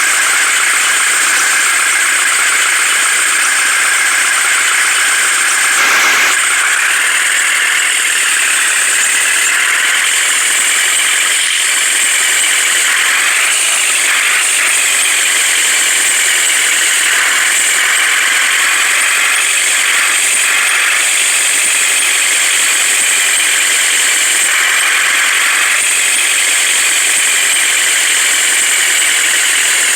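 Heavy-vehicle engine running steadily, with a high whine that slowly rises and falls in pitch as the machine works.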